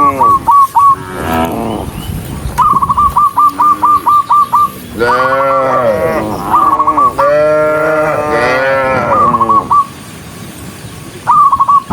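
Cattle mooing, several long calls overlapping one another. Between the moos come runs of short, high whistled notes, about four a second.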